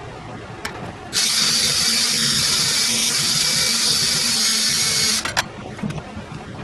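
A jet of compressed air hissing loudly for about four seconds, starting and stopping abruptly, then two short spurts, over a steady low machine hum.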